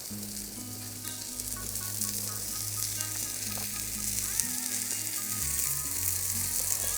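Chicken sizzling steadily on a hot Yokozawa thick steel griddle plate, cooking on the plate's stored heat over a Swedish-torch fire. Background music with a stepping bass line starts at the same moment and plays alongside.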